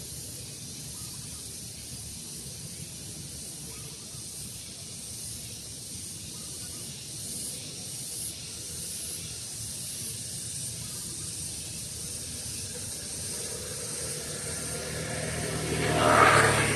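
Outdoor ambience with a steady high hiss throughout. Near the end a louder, noisier sound swells up, peaks and begins to fade.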